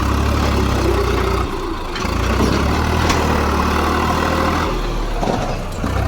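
Diesel tractor engine running under a heavy sand load, its note dropping and picking up again a few times as the revs change.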